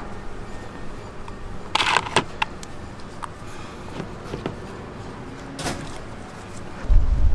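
Scattered clicks and knocks of objects being handled, with a short rustling burst about two seconds in and a heavy low thump near the end.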